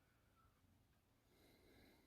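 Near silence, with a very faint, distant goose call near the end.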